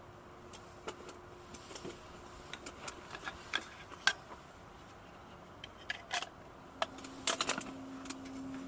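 Gear being handled: irregular clicks, clinks and light rattles of small hard objects, coming thicker and louder in the second half.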